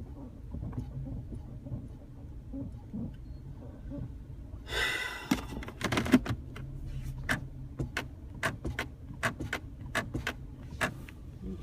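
Sharp irregular clicking, about two or three clicks a second, from under the center console of a 2010 Chrysler 300 while the brake pedal is pressed. It starts about five seconds in, just after a brief rustle, over a steady low hum. The clicking is a new fault that the owner cannot yet explain.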